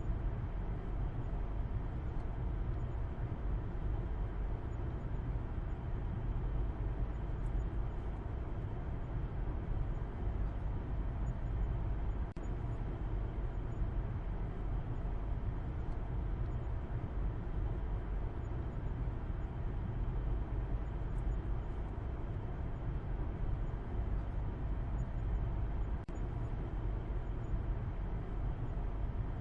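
Steady running noise of a car on the move: a continuous low rumble of engine and tyres on the road, with a softer hiss above it.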